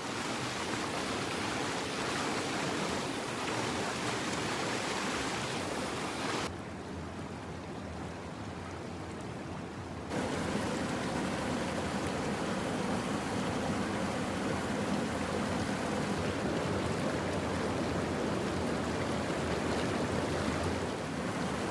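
Steady rush of running river water. From about a third of the way in, it turns duller and a little quieter for a few seconds, then comes back as before.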